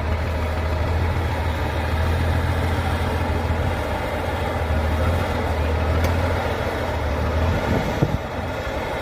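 Heavy truck engine running with a steady low drone that drops away about seven and a half seconds in, followed by a single knock.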